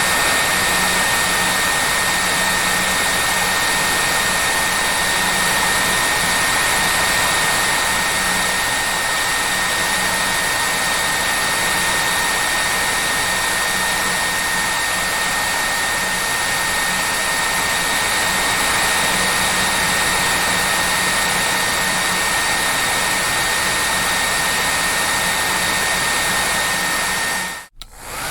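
Hair dryer running steadily: an even rushing blow with a steady high whine over it. Near the end it cuts out for a split second and comes straight back.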